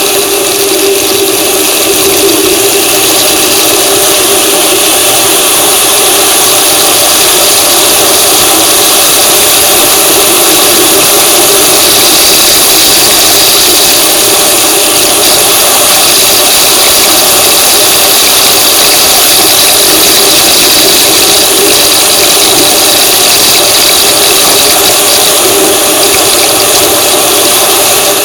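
Vehicle engine and road noise, loud and steady while driving.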